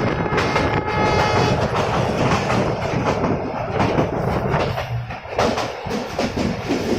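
Passenger train running along the track, heard from aboard: a steady rumble with wheels clacking over the rail joints.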